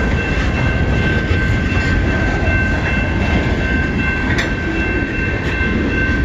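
CN freight train passing close by, a loud steady rumble of cars rolling on the rails, with a thin steady high ringing tone over it.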